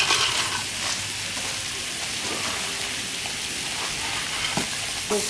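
Steady hissing noise, with a brief louder rustle or clatter at the very start.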